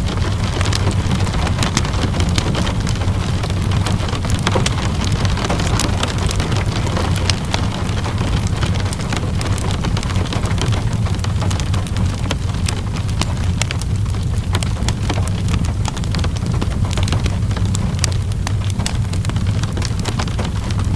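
Rain and a crackling wood fire mixed together: a steady, even hiss of rain over a low rumble, peppered with many small sharp pops and ticks.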